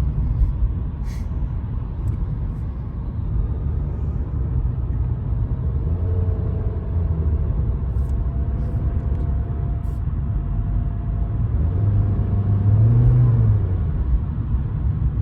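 Engine and road rumble inside the cabin of a 2017 Nissan with a CVT, with a faint steady whine in the middle and the engine note swelling briefly near the end. The driver says the transmission whines as soon as it is under load, a sign of its faulty CVT.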